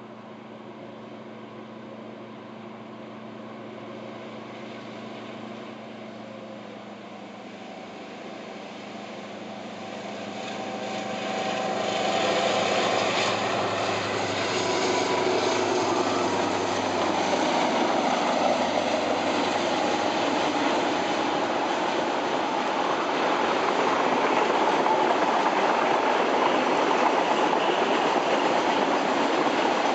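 Freight train hauled by KiwiRail DL-class (CKD-9B) and DFB-class (GT22MC) diesel-electric locomotives: a steady low engine drone approaching, growing much louder about ten seconds in as the locomotives pass, then the loud, steady rolling and clatter of the freight wagons going by.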